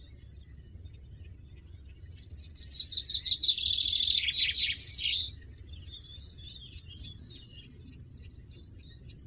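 European goldfinch singing: a loud burst of rapid, high twittering notes lasting about three seconds, then a couple of quieter trills.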